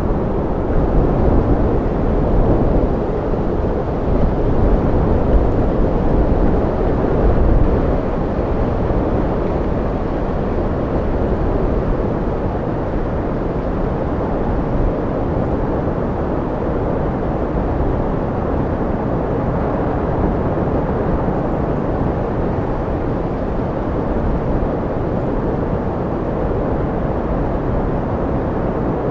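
Wind blowing with a low rumble, gusting harder through the first eight seconds or so, then settling into a steadier blow.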